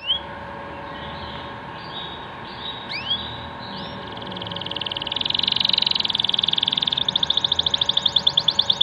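Domestic canary singing: a few short rising whistles, then from about four seconds a fast rolling trill of rapidly repeated notes that grows louder. This is the 'ngerek' trill that canary keepers prize.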